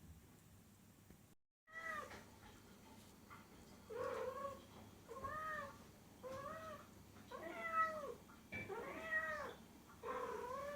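A domestic cat meowing repeatedly. After a brief silence there are about seven short meows, each rising then falling in pitch, spaced a little over a second apart.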